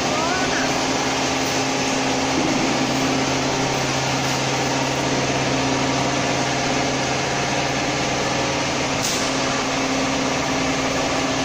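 Vacuum frying machine running: a steady low hum under a constant hiss, which cuts off suddenly at the end.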